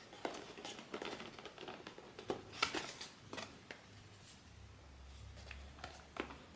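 Blind-box packaging handled by hand: a wrapper crinkling and rustling, with a run of small clicks and taps that is busiest in the first four seconds and thins out after.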